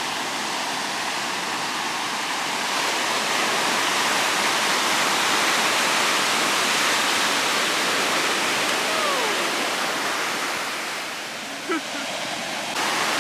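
Steady rush of sea surf breaking on a beach, with a faint distant voice once or twice.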